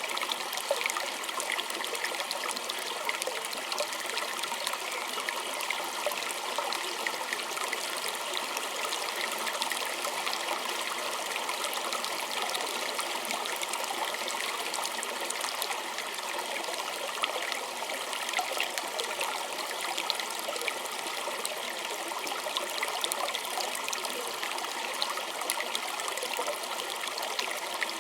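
A small stream running over stones, a steady trickling and babbling with many small splashes and no change throughout.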